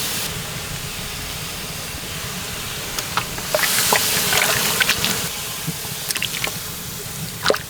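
Liquid pouring and splashing, with scattered light clicks and knocks of utensils or cookware.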